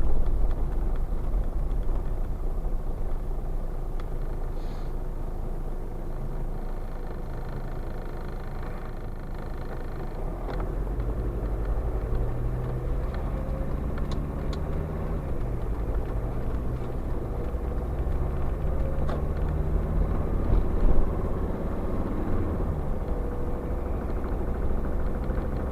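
SsangYong Musso 2.9-litre diesel engine (the Mercedes-built five-cylinder) running with a knock, shown as the engine's fault. The revs rise about ten seconds in and move up and down later, with a few sharp clicks over the steady running.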